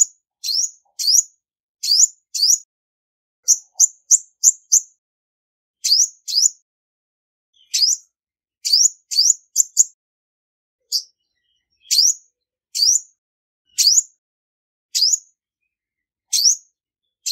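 Female olive-backed sunbird giving sharp, high chip calls, each a quick upward sweep. They come singly or in quick runs of two to four, with clean silence between.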